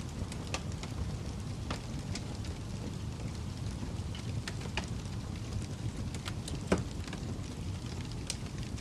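Fire crackling: a steady low rumble of burning with scattered sharp pops and snaps, the loudest about seven seconds in.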